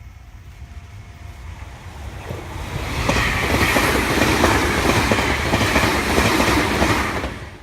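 Meitetsu electric train passing close by, its wheels clattering over the rail joints. The noise builds over the first few seconds, stays loud, then cuts off suddenly near the end.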